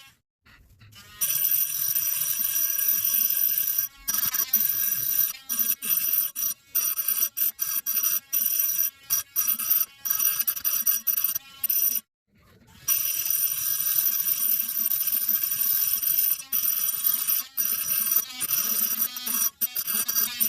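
Steady high-pitched whine of a small electric motor with a constant pitch. It breaks off abruptly just after the start and again about twelve seconds in, with many short interruptions.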